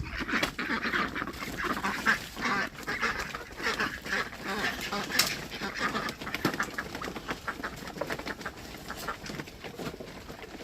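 Farm birds calling, duck- and goose-like, amid a busy clatter of short clicks.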